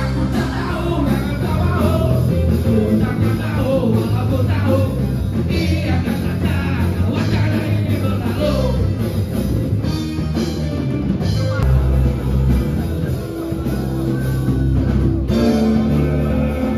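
A rock song played by a band, with singing over guitar and drums and a steady beat.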